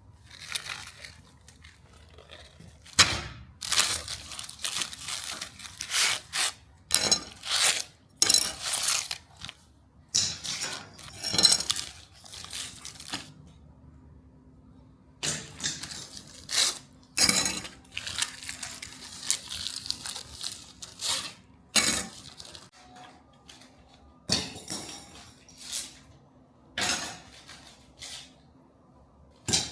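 Metal clattering and scraping: uneven strokes of about half a second to a second, with a few sharp clinks among them and short pauses between.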